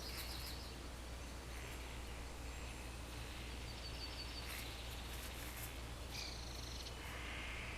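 Faint outdoor nature ambience: small birds chirping now and then in short high trills over a steady low hum.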